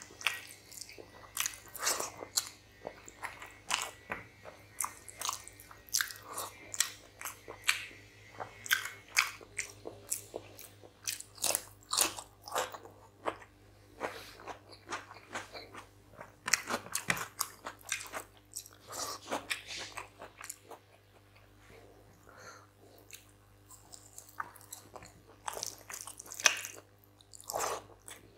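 Close-miked eating: chewing, crunching and wet mouth clicks of a person eating rice and chicken curry by hand, with fingers mixing the rice on the plate. The clicks thin out for a few seconds past the middle.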